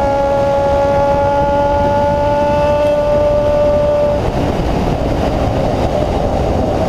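Honda CB-1 400 inline-four engine with an open exhaust, held at high revs with a steady, slightly rising note; about four seconds in the steady note drops away into a rougher, noisier sound.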